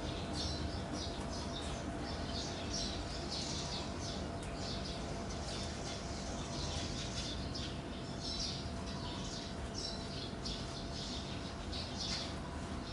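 Birds chirping in quick, irregular short calls over a steady low hum.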